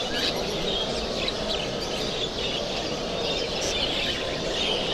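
Many caged birds, canaries and budgerigars, chirping at once: a steady overlapping chatter of short, high chirps from a hall full of show cages.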